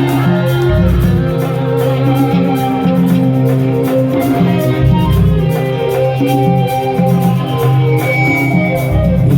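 Rock band playing an instrumental passage: guitar over bass and drums, with a steady beat.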